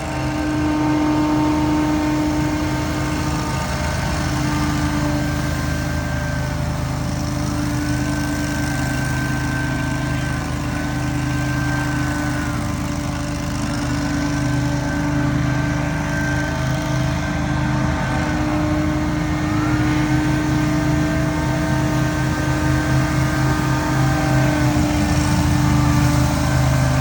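Engine of powered lawn equipment running at a steady high speed, with a higher whine that dips in pitch and comes back up roughly every six seconds.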